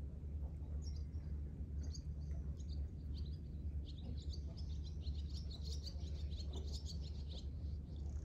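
Small birds chirping in quick, short, high calls, starting about a second in and busiest in the second half, over a steady low rumble.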